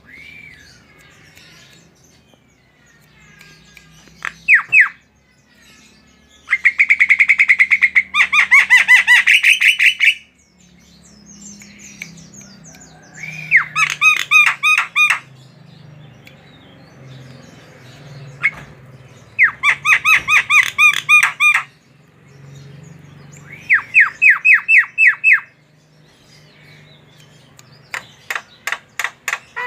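Javan myna (jalak kebo) singing vigorously in loud bursts of rapid repeated notes. It gives about five bursts of one to three seconds each, separated by short pauses.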